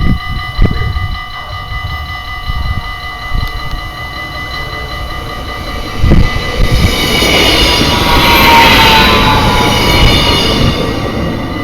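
Dutch level-crossing warning bell ringing steadily while a train passes through the crossing. The train's wheel and rail noise builds from about halfway through, is loudest a little after that with a high whine on top, and then fades.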